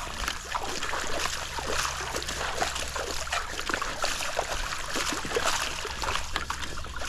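Pool tile at the waterline being scrubbed in a dense run of short scratchy strokes, with water splashing and trickling, over a steady low hum.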